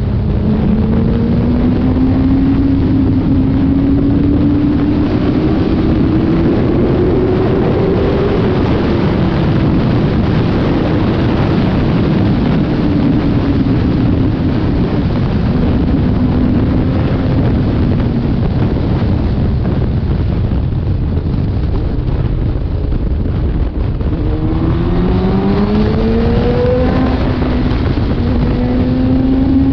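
Sport motorcycle's inline-four engine (a 2011 Suzuki GSX-R750) running at speed under heavy wind noise on the microphone. Its pitch climbs slowly for the first several seconds, and near the end it rises sharply and drops back a few times as it pulls through the gears.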